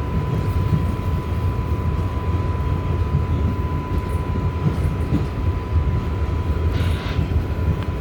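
R188 subway car in motion, heard from inside the car: a steady low rumble of wheels on rail and running gear, with a thin constant high tone. A short hiss comes in about seven seconds in.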